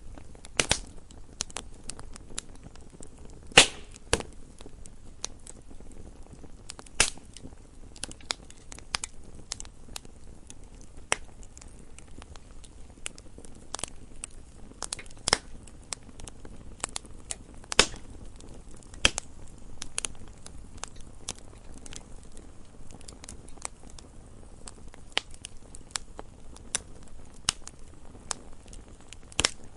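Campfire crackling: a low steady hiss of burning wood with irregular sharp pops and snaps, a few of them louder, at about four seconds in and near 18 seconds.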